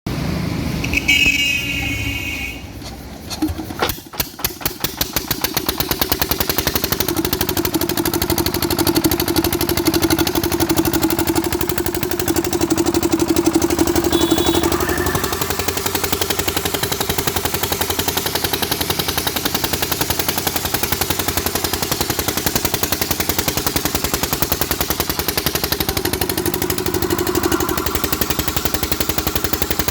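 14 hp water-cooled engine starting about four seconds in, after a brief louder sound near the start. Its firing strokes come quickly closer together, then settle into a steady, even running beat.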